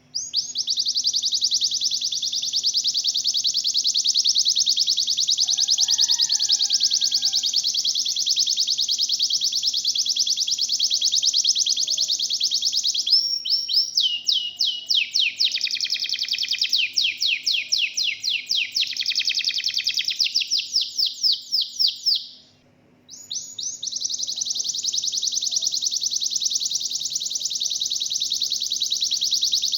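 Domestic canary singing a long rolling trill, a high, very rapid rattle held for about thirteen seconds. It then shifts to slower repeated notes that dip lower in pitch, breaks off briefly, and the high roll resumes.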